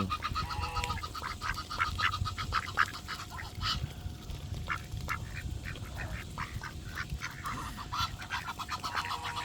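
A group of ducks quacking: many short calls in quick runs, close by and overlapping.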